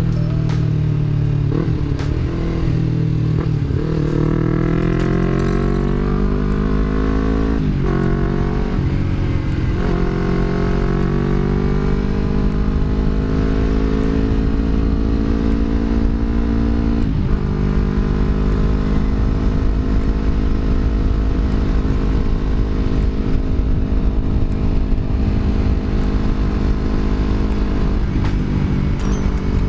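Yamaha R25's parallel-twin engine through a Villan MV1 aftermarket exhaust with a deep, mellow note, riding under way. The engine pitch climbs, drops at gear changes about 8 and 17 seconds in, then holds steady at cruise.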